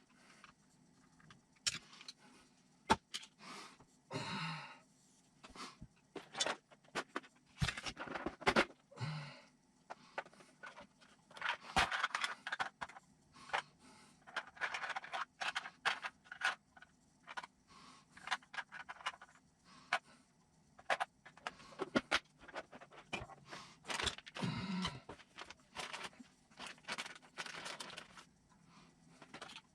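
Small parts and tools being handled on a workbench during RC kit assembly: irregular clicks, light clatters and scrapes.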